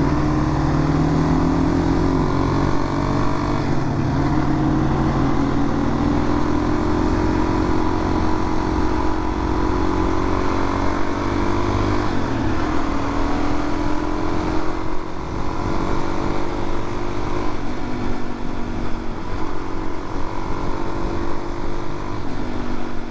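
Suzuki DR-Z400's single-cylinder four-stroke engine running steadily at road speed, its pitch drifting slightly up and down, over a constant rush of wind noise.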